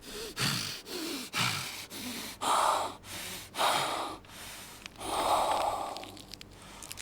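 A person breathing hard: a series of short, ragged gasping breaths in and out, the heaviest about halfway through, tailing off near the end.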